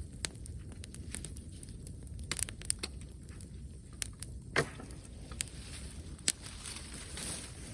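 Wood bonfire crackling, with scattered sharp pops; the loudest pop is about halfway through.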